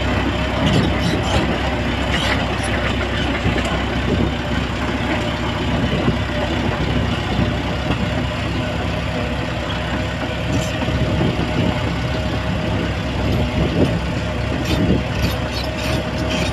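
A bulldozer's diesel engine running steadily at constant speed, with scattered short clicks and clanks from the working machine, more of them at the start and again near the end.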